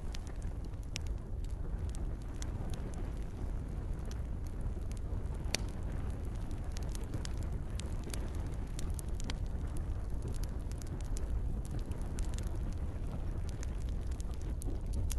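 Campfire crackling, with frequent irregular pops and snaps over a steady low rumble of burning; a soft patter of rain may lie beneath.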